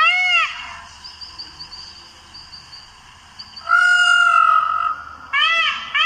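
Peacock calling: loud arched cries repeated in quick succession, a lull with faint high chirps, then one long level call about four seconds in, followed by more of the quick repeated cries.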